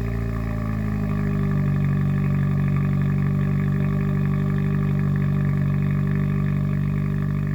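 Kia Forte GT's 1.6-litre turbocharged four-cylinder engine at a fast, steady idle just after a cold start, its pitch easing slightly in the first second and then holding.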